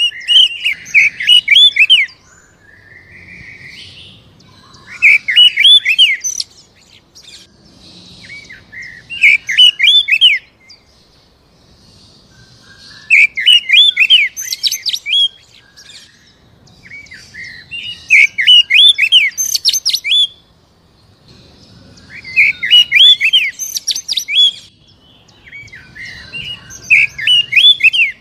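Oriental magpie-robin singing in loud, fast phrases of sweeping whistled notes, each about two seconds long and repeated about every four seconds, with softer calls in between.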